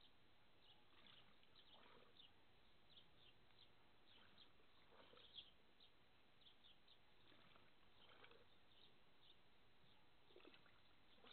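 Near silence: faint small birds chirping in the background, with short high chirps scattered throughout.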